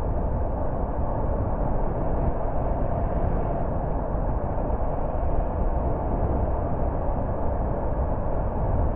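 A car driving along a road: a steady mix of engine and tyre noise, even throughout.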